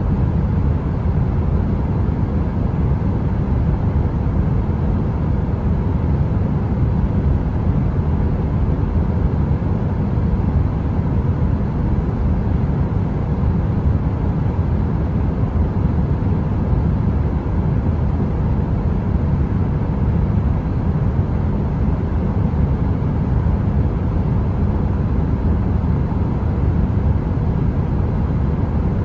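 Steady, deep rushing noise from a heater running continuously, heaviest in the low end, with no crackles, clicks or changes.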